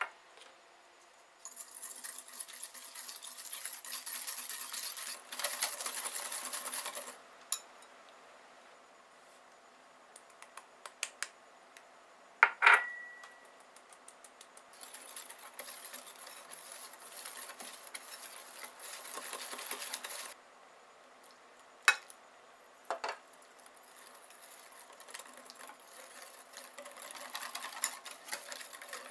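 Ingredients being stirred in a bowl: a utensil scraping round the bowl in bursts of several seconds, with sharp clinks against its side between them, one of which rings out about twelve seconds in.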